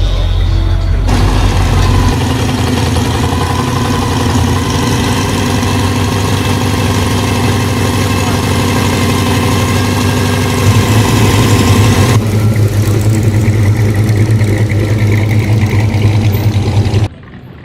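A car's engine idling loudly with a low exhaust rumble; it gets louder about eleven seconds in, and the sound cuts off abruptly near the end.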